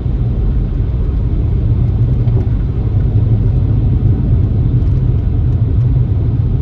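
A car driving along, with a steady low rumble of engine and tyres on the road.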